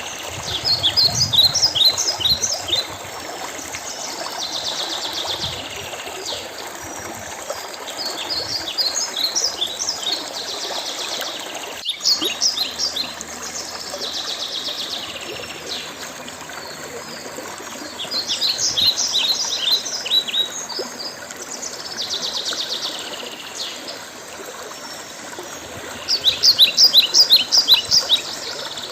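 A songbird singing the same phrase four times, about every eight seconds: a short buzzy stretch followed by a quick run of high, falling notes. Under it a stream trickles steadily.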